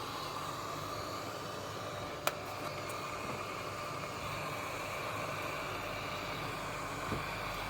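Hot air rework station blowing steadily, with one sharp click about two seconds in and a smaller one near the end.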